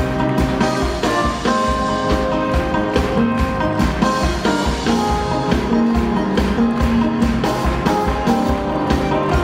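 Live rock band playing a song loudly, guitars over a steady drum beat.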